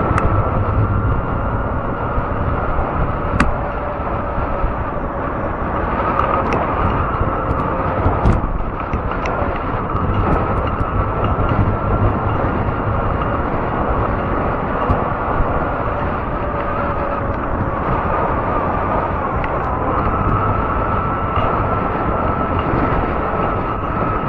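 Fat-tire electric bike riding along a trail: a steady motor whine over a rushing mix of wind and tyre noise, with scattered sharp clicks.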